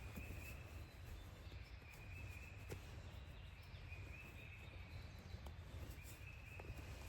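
Faint outdoor ambience: a high animal call about half a second long, repeated every second or two, over a steady low rumble, with a few soft ticks.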